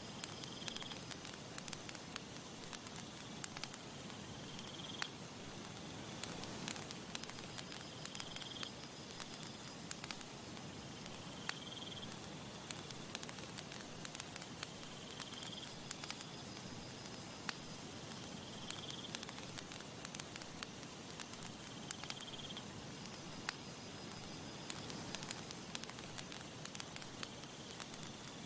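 Wood campfire crackling with frequent sharp pops over a steady hiss. A short high chirp repeats about every four seconds, and a thin very high buzz runs for about six seconds in the middle.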